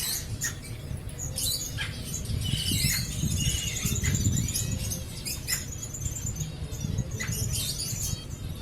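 A mix of caged exotic birds calling: short high chirps and squeaks with several rapid high trills, over a steady low rumble.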